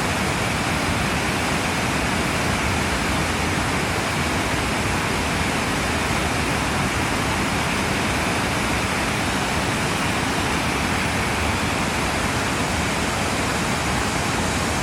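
River water rushing, a steady even rush with no breaks.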